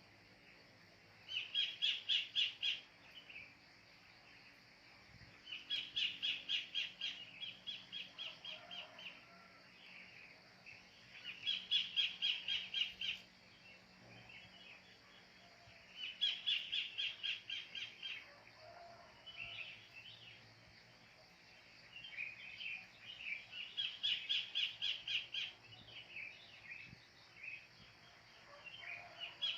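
A kingfisher (cekakak) calling in repeated bouts of a rapid run of sharp, loud notes, about six bouts a few seconds apart. Fainter calls of other birds sound between the bouts.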